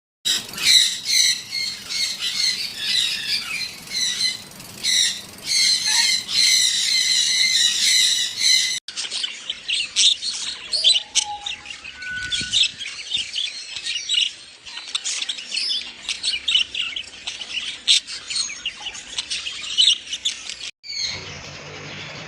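Many small pet parrots chirping and squawking together in dense, overlapping calls. The sound cuts off abruptly and picks up again twice, about nine and twenty-one seconds in.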